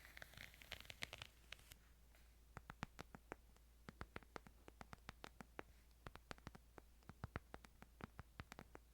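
Quiet ASMR handling of a Bible: irregular light taps and scratches, several crisp clicks a second, with a soft paper rustle in the first second or so.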